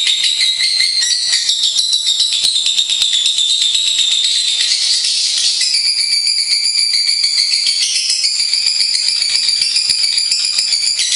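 Lovebird song: an unbroken stream of rapid, high-pitched chattering trills whose pitch shifts several times.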